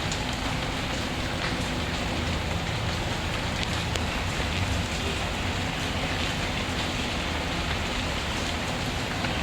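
Steady rainfall, an even unbroken hiss, with a few faint scattered crackles from a wood fire.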